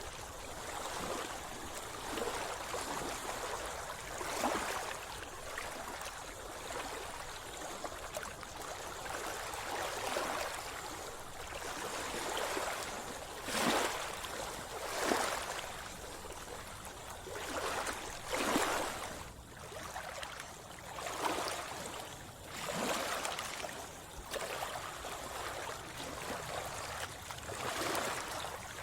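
Sea water sloshing and lapping close by, with irregular louder splashes every second or few.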